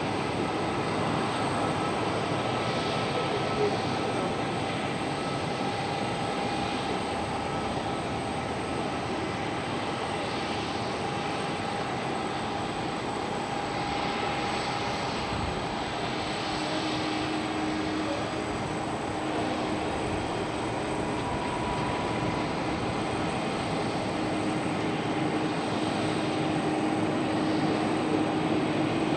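Airliner engines at an airport: a steady engine noise carrying faint steady whining tones, with a lower tone joining about halfway through.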